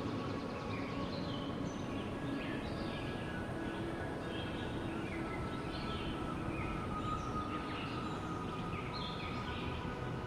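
Steady wind rushing, with many small birds chirping and twittering over it in short, quick calls.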